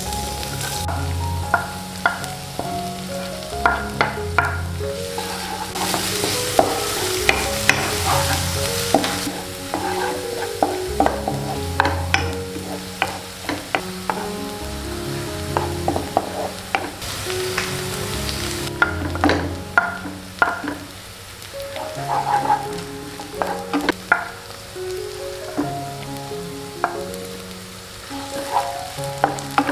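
Chopped shallots, garlic and red chillies sizzling in hot oil in a nonstick wok, with a wooden spatula scraping and tapping against the pan as they are stirred.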